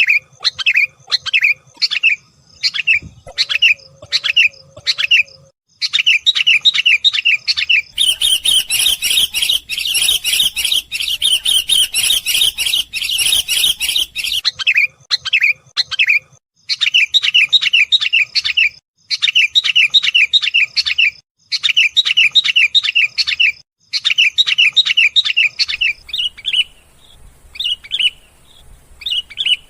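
Sooty-headed bulbul (kutilang) calling in quick, repeated chirps. The chirps come singly at first, then in runs of a second or two with short breaks. A denser, louder burst of chattering runs from about 8 to 14 seconds in.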